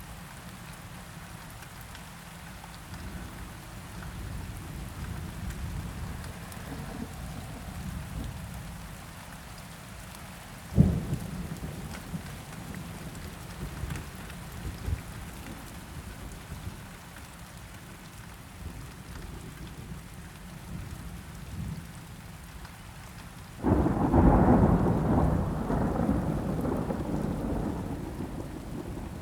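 Steady rain falling, with thunder: a single sharp crack about eleven seconds in, then a loud rolling thunderclap breaking near the end and slowly fading.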